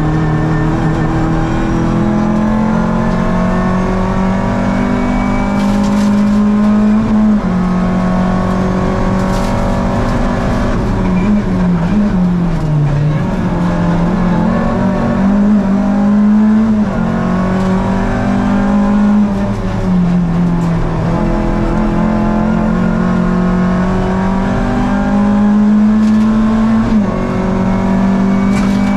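Rally car engine heard from inside the cabin, pulling hard along the stage. Its pitch climbs under acceleration and drops sharply at each gear change, several times, with a lift and back-off into a bend about halfway.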